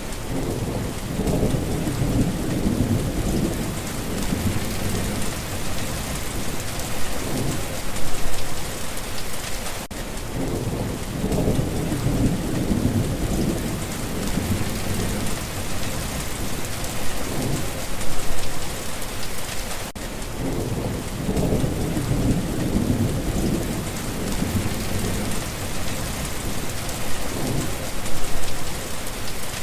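Steady heavy rain with low rolling thunder swelling up and dying away three times. The same ten-second stretch repeats, a looped recording.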